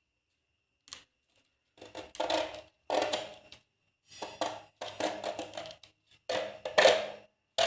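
Thin plastic bottle crackling and clattering in a run of irregular bursts as holes are punched through its sides.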